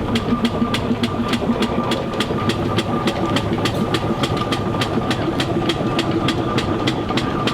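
Steam traction engine running, its engine giving a steady rhythmic beat of about four to five knocks a second.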